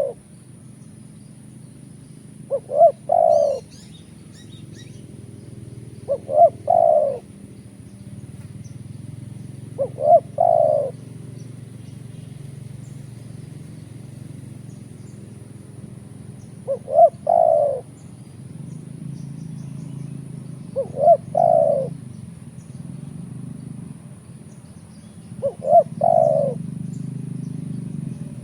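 Spotted dove cooing: a phrase of two short notes and then a longer coo, repeated six times about every four seconds, over low steady background noise.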